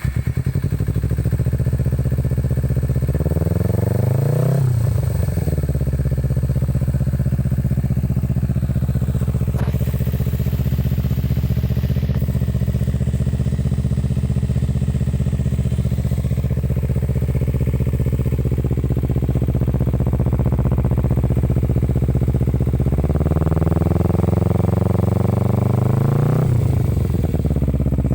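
Kawasaki Ninja 250 FI parallel-twin engine idling through an aftermarket racing exhaust with a deep, bassy note. It is revved briefly about three seconds in, and again for longer near the end, the pitch climbing and dropping back to idle.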